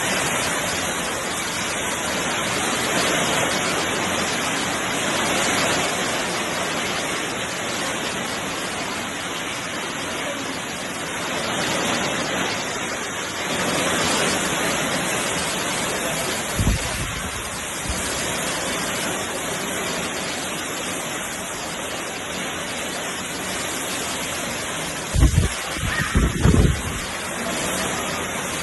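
Hail and rain pouring down in a dense, steady hiss. A few low thumps come about two-thirds of the way in, and a louder cluster of them comes near the end.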